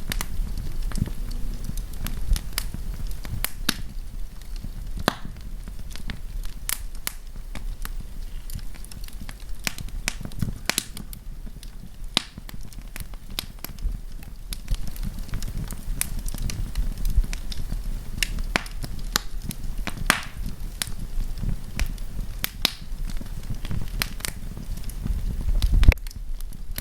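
Wood campfire burning: irregular sharp crackles and pops over a steady low rumble, with a louder low rush shortly before the end.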